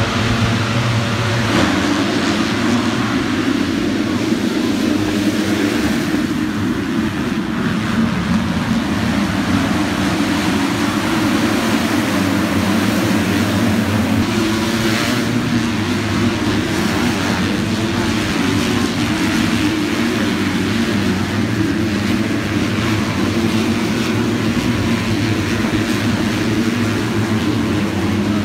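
A steady, unchanging engine drone with a hiss of noise over it, like a vehicle travelling at constant speed.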